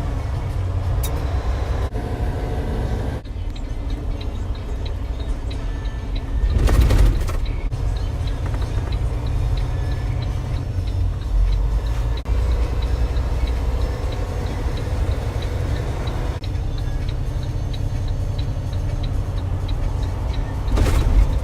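Steady low rumble and road noise inside a moving truck's cabin, with a faint regular ticking about twice a second through most of it. Twice the noise swells briefly, about seven seconds in and near the end.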